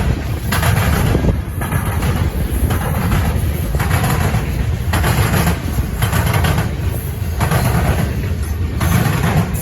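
Loaded potash freight cars rolling past at close range: a steady heavy rumble of steel wheels on rail, with a clatter that swells and fades about once a second as each car's wheel sets go by.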